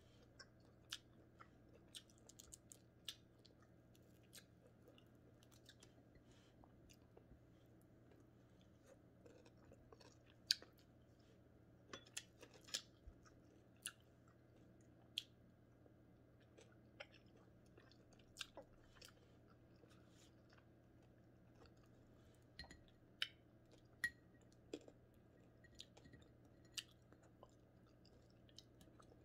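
Close-up chewing and crunching of crispy fried scad (matambaka), with sharp crunchy clicks coming irregularly, a few louder ones among many faint ones, over a faint steady hum.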